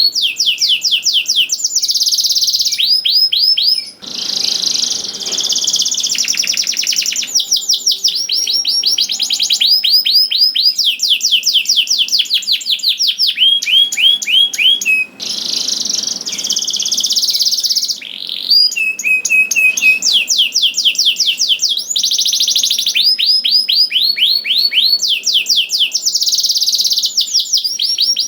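Domestic canary singing a long, continuous song of rapid trills: fast runs of repeated sweeping notes, changing to a new trill every second or two, with a few brief pauses.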